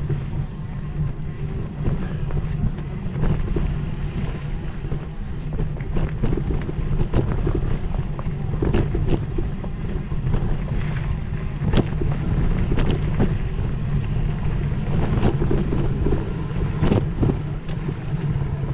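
Wind rushing over the microphone of a moving mountain biker, a steady low rumble, with irregular rattles and knocks from the bike bouncing over rough dirt trail.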